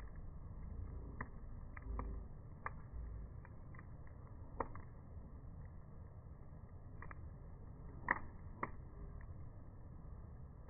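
Wood fire crackling: scattered sharp pops from burning wood over a low rumble, with the two loudest pops close together about eight seconds in.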